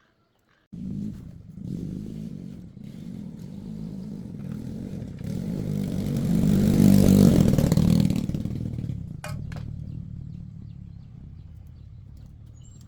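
An engine starts up abruptly from quiet just under a second in and runs with a low hum. It grows steadily louder to a peak about seven seconds in, then fades away, with a couple of short clicks near nine seconds.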